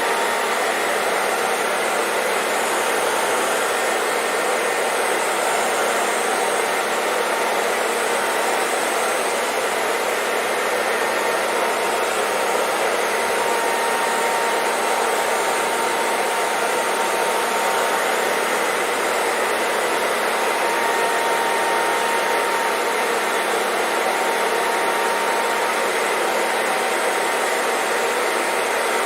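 Hair dryer running steadily, a constant rush of blown air with a faint motor whine held at one pitch, used as white noise to soothe a baby to sleep.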